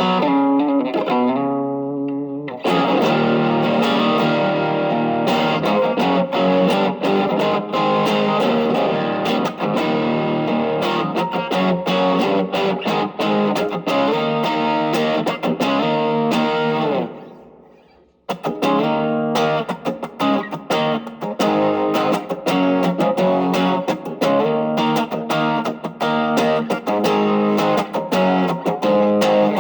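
Electric guitar played through an Ibanez TS808 Tube Screamer set as a boost, fitted with a 1980 Malaysian RC4558P op-amp chip: overdriven chords and picked lines. About two-thirds of the way through, the playing fades out and starts again, now with the guitar's volume knob rolled back to clean up the overdrive.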